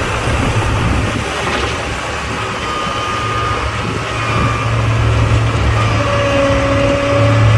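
Heavy diesel engine of a construction machine running steadily, with thin whining tones coming and going above it.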